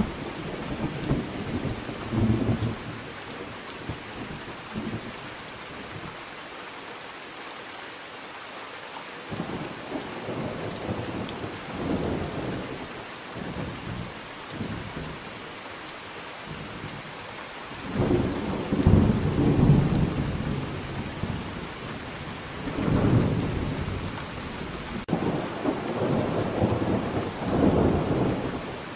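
Thunderstorm: steady rain hiss with rolling thunder rumbles, a loud long roll about two-thirds through and several smaller rolls before and after.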